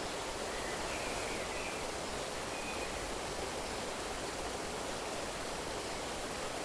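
Steady rushing of running water, like a stream, with no pauses or changes.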